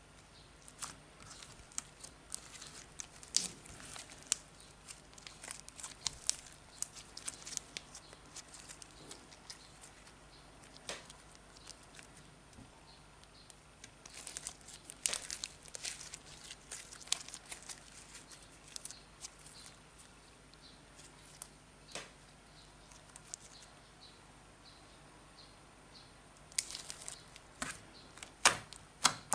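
Slime being squeezed and stretched by hand, giving irregular clusters of small sharp crackles and pops with short pauses between them.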